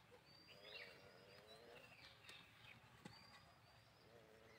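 Quiet outdoor sound with small birds faintly chirping in short high calls, and a faint low animal vocalisation in the first half and again near the end.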